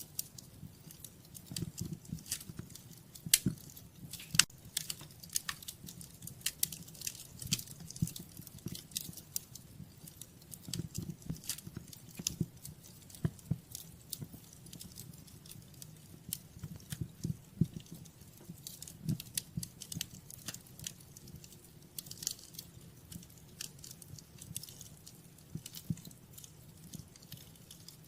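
Wood fire in a fireplace crackling, with irregular sharp snaps and pops over a low, steady rumble of the burning.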